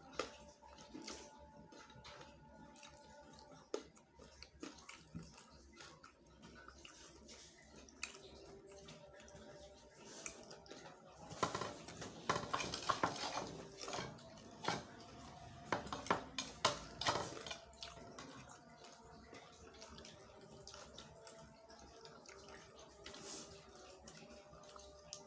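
Close-up eating and tableware sounds: scattered clicks and clinks of a plate and utensils. About halfway through, a dense run of crackly crunching and clinking lasts some six seconds, then it thins back to occasional clicks.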